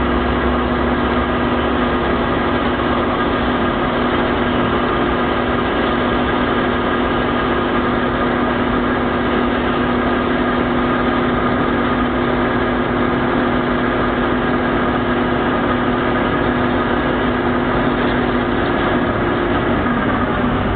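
Industrial band saw machine cutting through a round steel bar, running steadily with a hiss and several held tones. Near the end the tones fade out.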